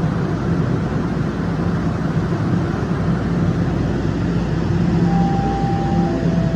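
TTC Line 1 subway train running in the station: a loud, steady rumble with a low hum. About five seconds in, a steady tone starts and steps down in pitch.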